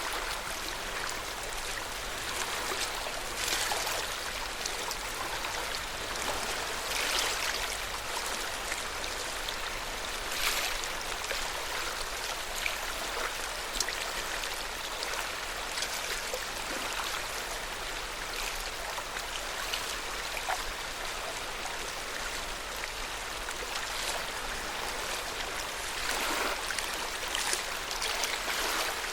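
Lake water lapping at the shore: a steady wash of small waves, with a slightly louder splash every three to four seconds.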